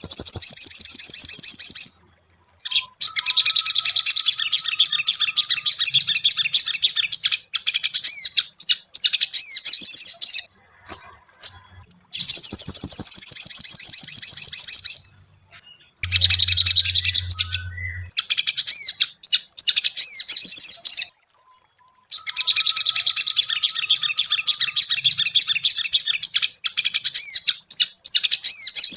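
Sogon (spiderhunter) singing: fast, high, chattering chirps in long runs of several seconds each, broken by short pauses.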